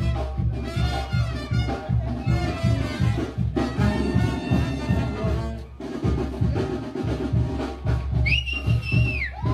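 Banda brass band playing: trumpets and trombones over a pulsing tuba bass and drums. Near the end a single high held tone rises, holds and falls away.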